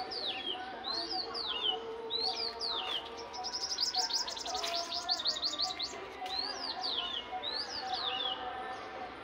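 A bird calling: short falling notes, high-pitched and repeated about once a second, with a fast run of rapid notes, roughly ten a second, in the middle. Faint steady tones sound underneath.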